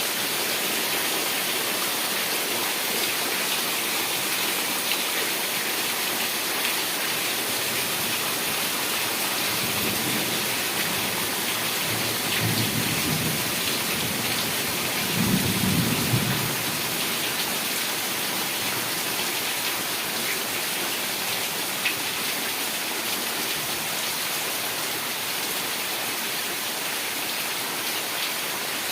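Heavy rain falling with a steady, even hiss. A low roll of thunder builds about a third of the way through and peaks just past the middle before fading.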